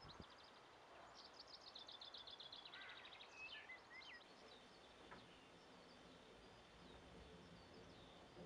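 Faint birdsong: a songbird sings a fast run of repeated high notes about a second in, ending with a few lower swooping notes, followed by scattered faint chirps.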